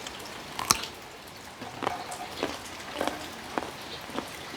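Steady rain falling, with short sharp ticks roughly every half-second, the loudest about a second in.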